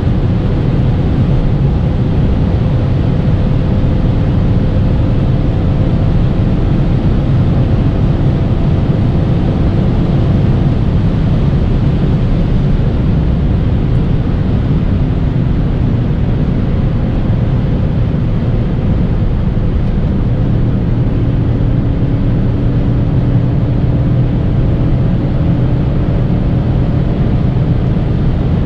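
BMW E39 540i's 4.4-litre V8 droning under a steady high-speed cruise, mixed with loud tyre and wind noise. The engine note drifts only slightly in pitch, with no hard acceleration.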